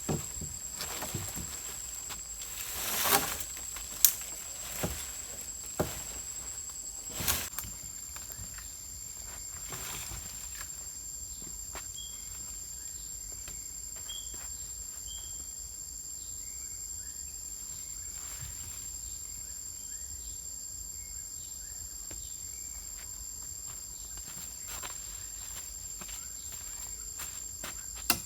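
Forest background with a steady high-pitched insect drone. A handful of sharp knocks and rustles come in the first seven seconds, and faint short chirps come midway.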